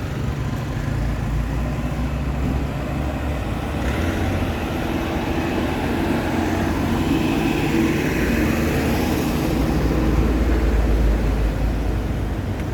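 Town street traffic: motor vehicle engines running and passing, a steady low rumble that swells about ten seconds in as a vehicle comes close.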